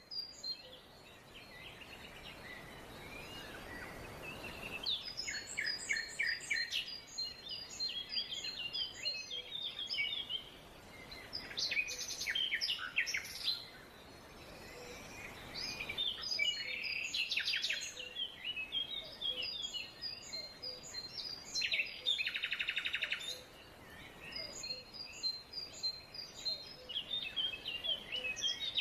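Several songbirds singing and chirping together, short high calls overlapping throughout, with one bird giving a rapid buzzy trill about three quarters of the way through. A soft rushing background swells and fades twice underneath.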